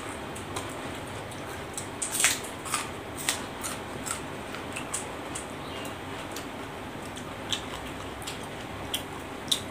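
Close-up chewing of raw pea eggplants and greens: short, crisp crunching clicks every half second or so over a steady hiss, the loudest about two seconds in and again near the end.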